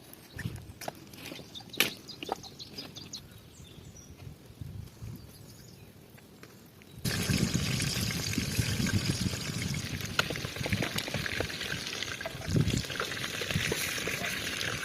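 Scattered light clicks and knocks, then about seven seconds in a sudden switch to steady running, trickling water.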